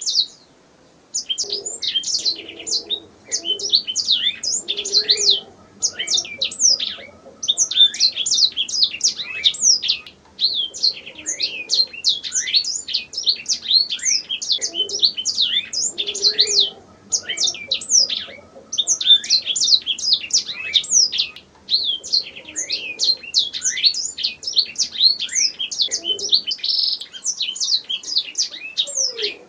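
Domestic canary singing: long runs of rapid, high chirps and trills, in phrases broken by brief pauses every few seconds.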